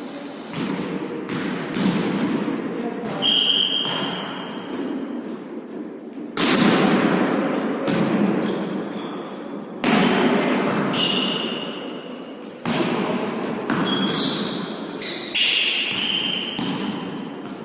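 A ball being struck and bouncing on an indoor court during a volley tennis rally: a series of sharp thuds at irregular intervals, the louder ones ringing on in the hall's reverberation.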